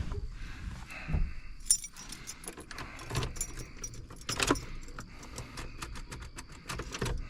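Keys jingling and clicking on a keyring as the ignition key is worked in an old Ford F350, with no crank from the engine: the batteries are dead.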